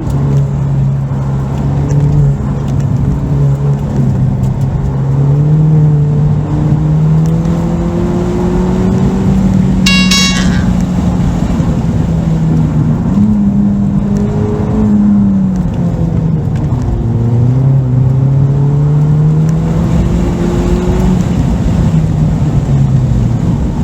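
Ford Fiesta ST's turbocharged four-cylinder engine driven hard on an autocross course, its note rising and falling with throttle and gear changes. A short high beep sounds once about ten seconds in.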